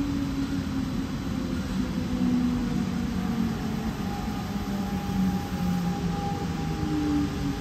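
Train running with a steady rumble and a few humming tones that slide slowly lower.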